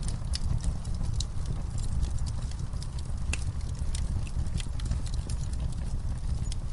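Wood fire crackling: irregular sharp snaps and pops over a steady low rumble of the burning fire.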